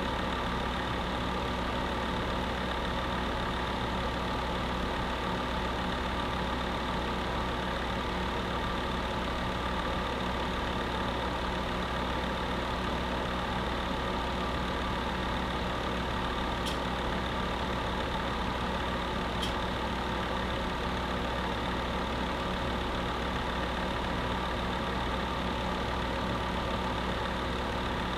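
Electric space heater running steadily: an even whoosh from its fan with a constant hum beneath it. Two faint ticks sound a few seconds apart past the middle.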